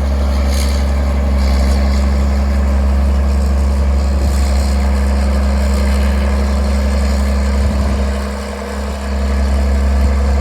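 An engine running steadily at a constant speed, with a deep, even hum; its level dips briefly near the end.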